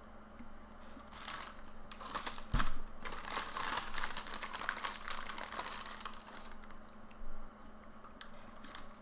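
A paper cookie bag being crumpled and crinkled in the hands: a dense run of crackles lasting several seconds, with a single soft thump about two and a half seconds in. A faint steady hum lies underneath.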